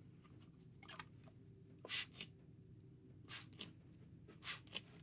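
Spray bottle squirting water: about six short hissing sprays, the loudest about two seconds in and two close together near the end, for wetting hair before a haircut.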